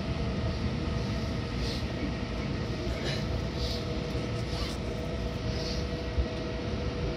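Seibu 6000 series electric train running, heard from inside the car: a steady rumble of wheels on the track with two level hums, and short faint hisses every second or two.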